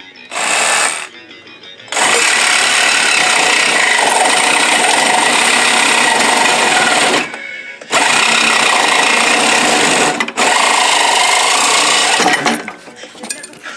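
Reciprocating saw (Sawzall) cutting: a short burst near the start, then a long steady run that stops briefly twice, about 7 and 10 seconds in.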